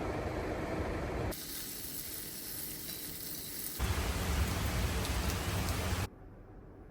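Rain hissing steadily, in short clips that cut abruptly from one to the next. A thinner high hiss is followed by a louder one with a low rumble underneath. It drops off suddenly near the end.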